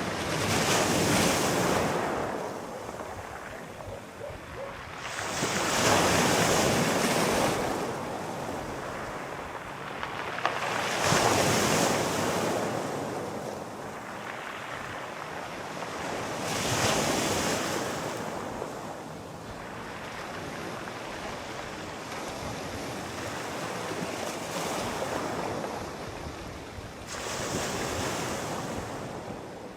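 Sea waves breaking and washing ashore in slow surges, each one swelling and then fading, about every five or six seconds, with a calmer stretch of lower, steadier wash near the end.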